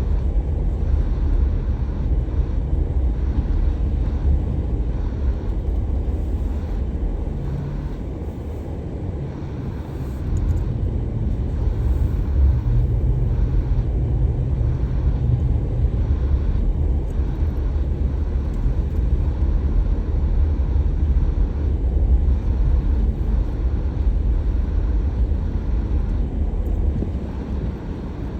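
A car driving, with a steady low rumble of engine and road noise that eases off briefly about eight seconds in and picks up again about two seconds later.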